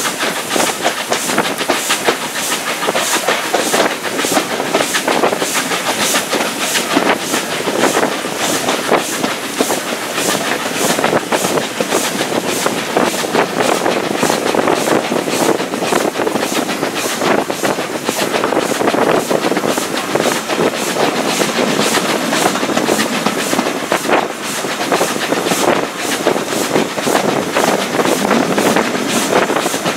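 Heritage railway train running along the line, heard from an open carriage window: wheels clattering on the rails with a steady beat of about two a second, over a constant rush of running noise and wind.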